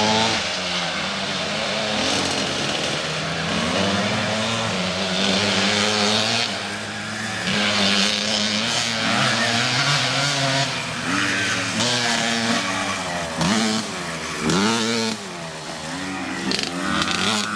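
Mini motocross bike's engine revving up and down as it is ridden, its pitch repeatedly rising and falling with the throttle.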